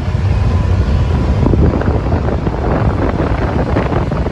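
Wind buffeting the microphone of a moving side-by-side, a loud steady rumble, with the vehicle's running noise underneath.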